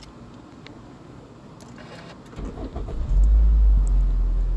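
Toyota Noah's engine being started: a few light clicks, then the starter cranks briefly about two and a half seconds in. The engine catches a moment later and settles into a steady, loud low idle.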